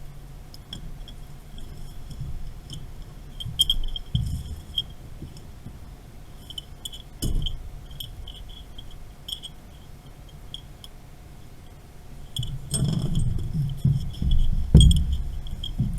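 Light metallic clinking and jingling of tools or small metal parts being handled, with dull knocks and handling rustles, busiest near the end.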